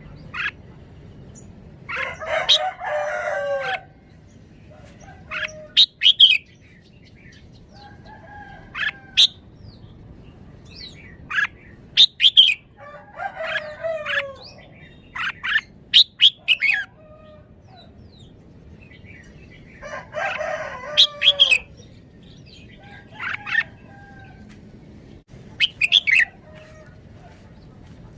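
Red-whiskered bulbul singing in short bursts of sharp, whistled phrases every few seconds. Longer, lower warbling calls of about two seconds, each ending in a falling note, come about two, fourteen and twenty seconds in.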